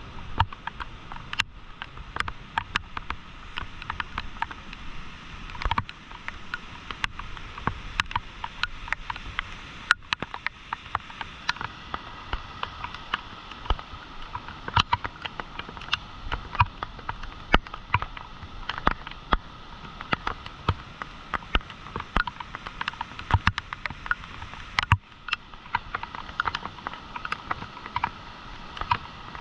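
Swollen, fast-flowing floodwater rushing, a steady noise broken by many irregular sharp splashes and crackles.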